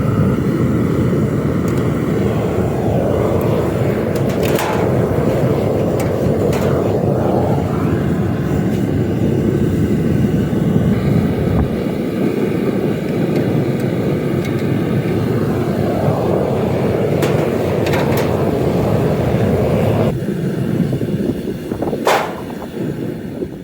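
Homemade propane-fired metal-melting furnace running steadily at full heat, with a few sharp metallic clinks over it. The noise eases off somewhat near the end.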